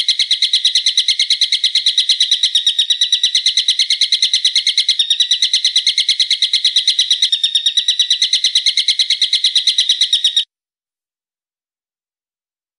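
A bird's shrill, rapid call: a long, even run of sharp notes at about eight a second, cutting off suddenly about ten and a half seconds in. It is played as a masteran, a call recording used to teach songbirds.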